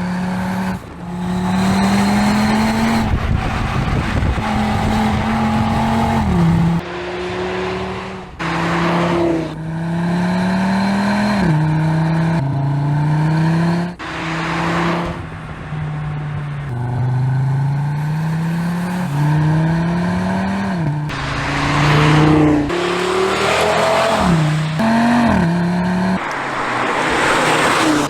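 Audi RS3's 2.5-litre turbocharged five-cylinder accelerating hard through the gears. The engine note climbs and then drops abruptly at each gear change, over and over.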